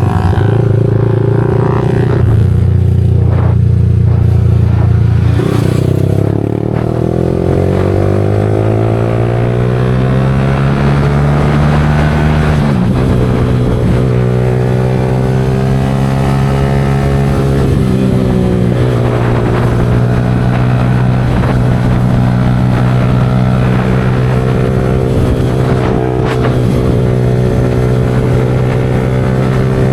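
Yamaha R15 V4's 155 cc single-cylinder engine running through an aftermarket Leo Vince exhaust while riding. The revs climb smoothly for several seconds, drop suddenly about halfway through as at a gear change, then hold mostly steady with a short dip.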